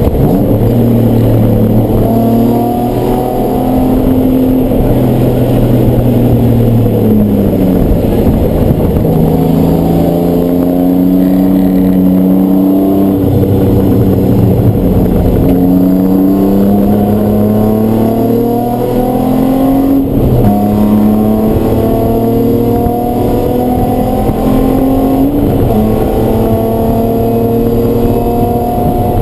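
Race car engine running hard under load, its pitch climbing steadily and falling back sharply several times, about every five seconds, as it accelerates and shifts or lifts.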